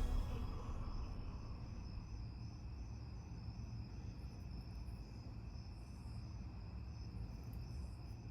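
Background music fading out in the first second, leaving a steady low rumble with a continuous high-pitched chirring, insect-like, over it.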